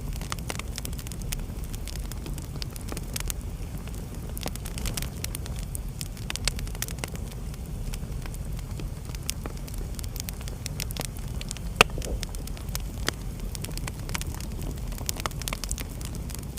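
Wood fire burning in a fireplace: many sharp crackles and pops over a low steady rumble of the flames, with one louder pop about twelve seconds in.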